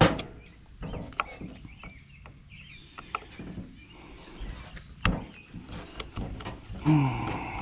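Small hand tools clicking and tapping on the tractor's distributor while the breaker points and condenser are taken out, with a sharper knock at the start and again about five seconds in.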